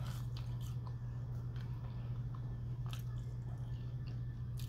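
Close-up mouth sounds of a person biting into and chewing a crisp French fry, with a few sharp crunches scattered through the chewing. A steady low hum runs underneath.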